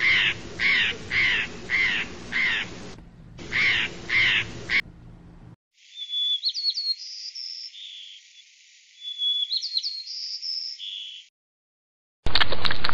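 Blue jays giving harsh repeated calls, about two a second, in two runs with a short break. After a pause, a small songbird's short chirps and whistled notes, and near the end a sudden loud rushing noise starts.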